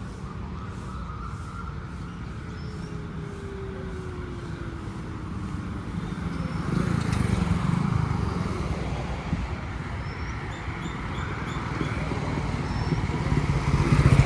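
Road traffic: cars and motorcycles passing, a steady rumble that swells as a vehicle goes by about seven seconds in and again at the end. Faint bird chirps are heard over it.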